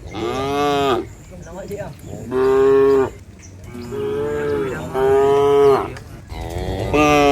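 Cattle mooing: about five short calls, each under a second, one after another.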